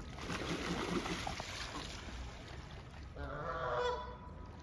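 A goose gives one honking call about three seconds in, after a couple of seconds of rushing noise.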